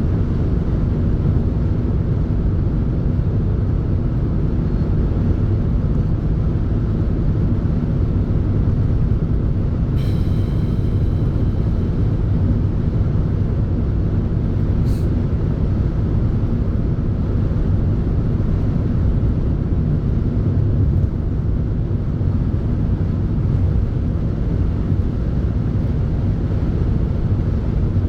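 Steady low rumble of a moving vehicle, with a brief faint high tone about ten seconds in and a small click about five seconds later.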